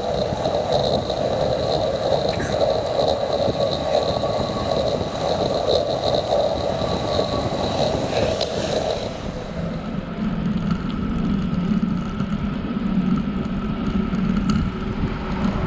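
Steady rolling noise of a bicycle being ridden on a paved trail. Its tone changes about ten seconds in, when the higher hiss drops away and a lower hum takes over.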